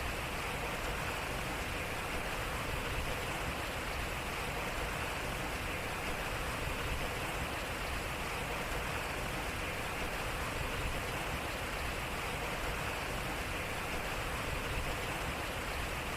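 Water flowing and splashing at a turning water wheel: a steady, even rush of water.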